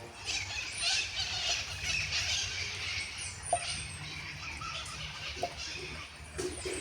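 Small birds chirping outdoors: a few short, high, downward-gliding chirps over a faint steady hiss, with a few soft ticks in between.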